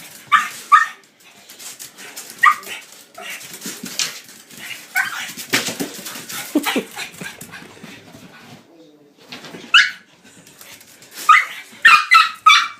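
A dog giving short, high-pitched screeching yelps and barks in excited bursts while chasing a laser pointer's dot, with a quick run of yelps near the end.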